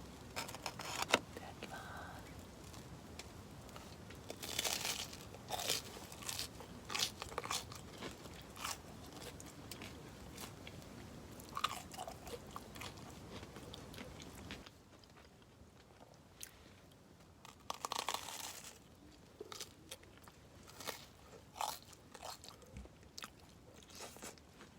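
Someone biting and chewing crunchy food, a run of irregular crunches with quieter stretches between them.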